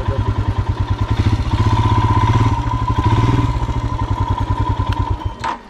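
Motorcycle engine idling with an even, quick low thumping, swelling slightly in the middle, then cutting out about five seconds in, followed by a couple of sharp clicks.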